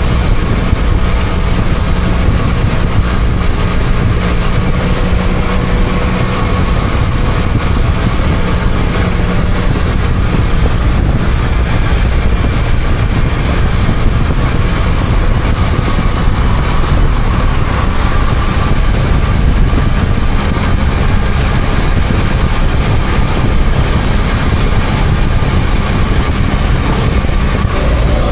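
BMW F800GS parallel-twin engine running while the motorcycle is ridden, under a steady rush of wind and road noise. The steady engine note changes about seven seconds in.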